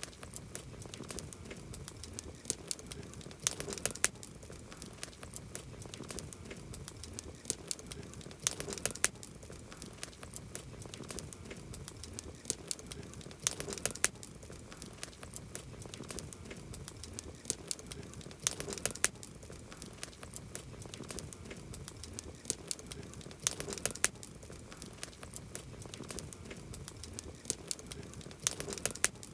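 Wood campfire crackling: sharp pops and snaps over a low hiss, with a cluster of louder pops about every five seconds.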